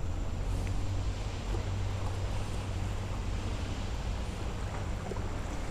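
Steady rushing of the flooded Macal River's brown water flowing under a low wooden bridge, with wind rumbling on the microphone.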